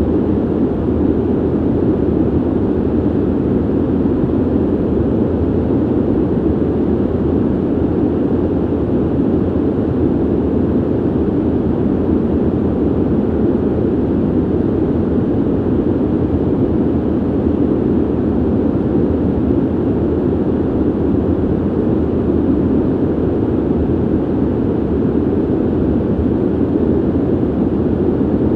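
Steady ventilation noise: an even, deep rushing of air through a vent or duct, with no changes.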